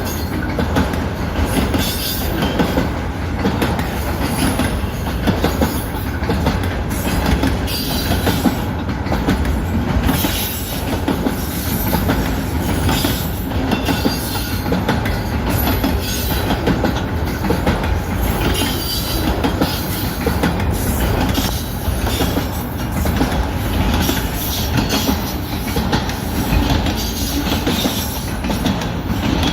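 Freight train cars of a CN mixed-freight manifest rolling steadily past, their steel wheels clicking over the rails without a break.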